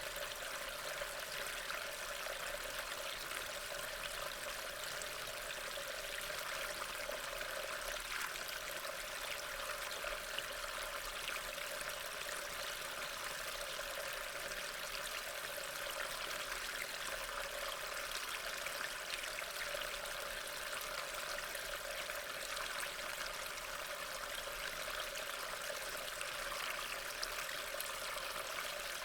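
Steady rain falling, an even wash of water noise with fine patter that neither builds nor stops.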